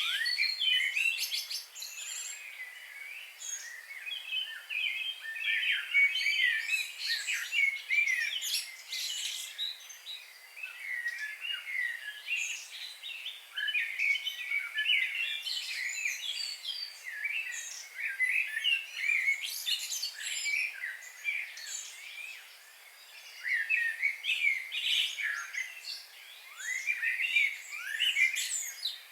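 Several songbirds singing and chirping at once, a dense chorus of short, overlapping calls and quick rising and falling notes, with brief lulls about two-thirds of the way through.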